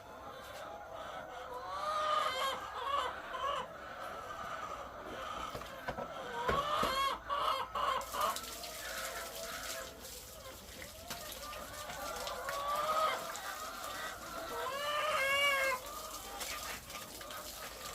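Many egg-laying hens clucking and calling in a chicken house, overlapping calls with louder rises now and then, over a steady background hum.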